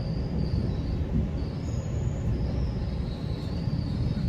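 Steady low rumble of a GO Transit commuter train running on the rails, heard from inside the coach, with a faint high-pitched squeal wavering above it.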